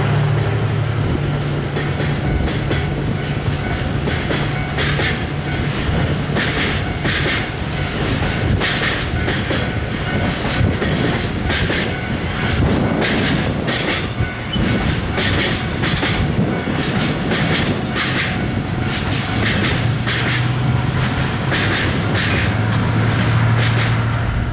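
Diesel-hauled freight train rolling past, its wagon wheels clacking irregularly over rail joints. A low diesel engine drone is heard at the start and comes back near the end.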